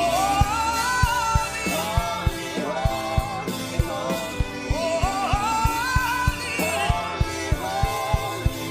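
Worship song: a voice singing a melody over a band with a steady drum beat.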